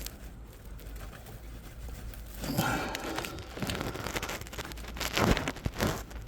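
Rubber vacuum hose being worked by hand onto its pipe behind a truck's dashboard: quiet fumbling at first, then from about two and a half seconds in, irregular rustling, crinkling and sharp clicks and knocks.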